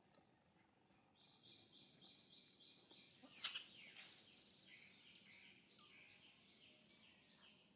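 Faint bird chirping: a fast series of short high notes, about four a second, some sliding down in pitch, starting about a second in. A brief, louder rustling scrape cuts across it about three and a half seconds in.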